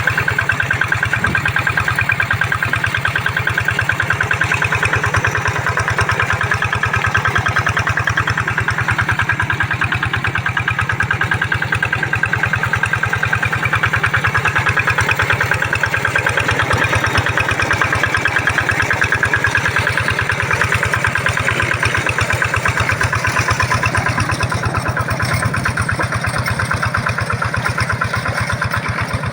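Kato hand tractor's engine running steadily with a fast, even chugging pulse, pulling a single plow.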